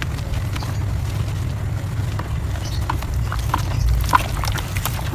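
Soft dirt being crumbled: scattered small crunches and crackles that come more often in the second half, over a steady low rumble.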